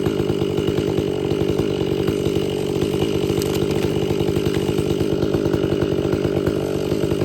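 Stihl 500i two-stroke chainsaw running steadily under load, bucking wood with a freshly hand-filed Oregon chain.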